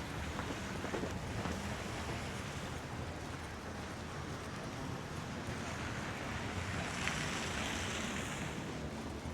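Blizzard wind blowing steadily across the microphone, swelling a little about seven seconds in, with a few faint footsteps in snow in the first couple of seconds.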